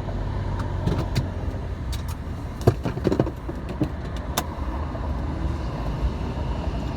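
Steady low car engine and traffic rumble, with a series of sharp clicks and knocks in the first half, the loudest about two and a half seconds in.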